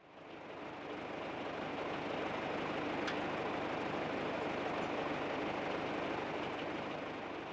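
John Deere 2750 farm tractor's diesel engine running steadily, fading in at the start.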